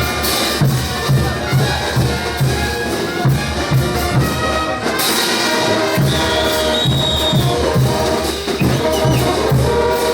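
Bolivian brass band playing a ch'uta dance tune: brass melody over a steady low drum beat about twice a second. The low beat drops out for about a second midway.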